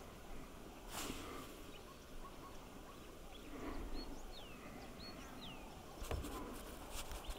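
Quiet outdoor bush ambience with a bird giving two short falling whistled notes about halfway through, and a few soft clicks near the end.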